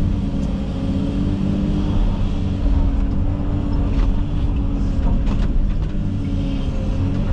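Komatsu 360 excavator's diesel engine running steadily under work, with a few sharp cracks and knocks scattered through it as the machine works through brush.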